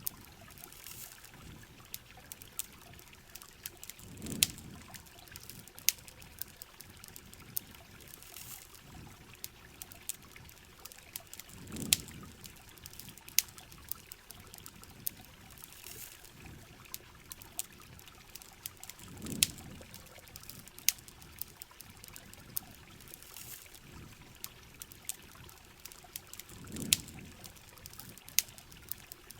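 Heavy rain with a campfire crackling through it in sharp pops. A low watery gurgle swells and fades four times, about every seven and a half seconds.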